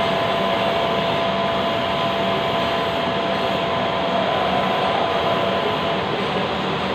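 Lathe running steadily in a machine shop, a constant mechanical noise with a high whine that drops out about six seconds in.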